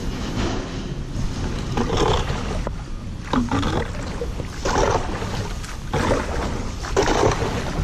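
Canoe being poled or paddled through shallow water: several separate splashing strokes about every one and a half to two seconds, over a steady low rumble of handling on the microphone.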